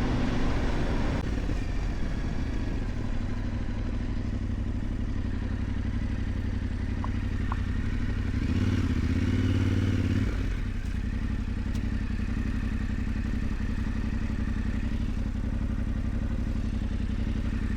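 Yamaha Ténéré 700's parallel-twin engine running steadily at low speed as the motorcycle rides a dirt track, pulling a little harder for a second or two about halfway through.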